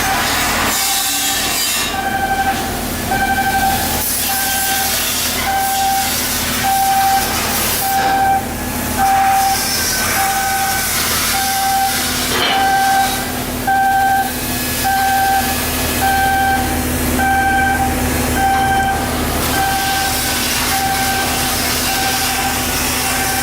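An electronic warning beeper sounding a steady single-pitched beep about once a second, over constant machinery noise and a low hum.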